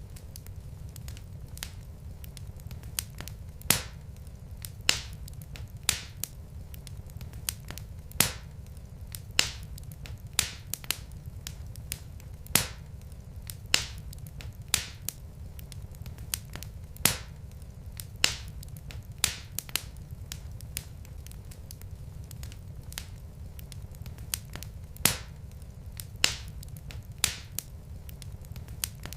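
Burning logs in a fireplace crackling: sharp, irregular pops, about one a second and some much louder than others, over a steady low rumble.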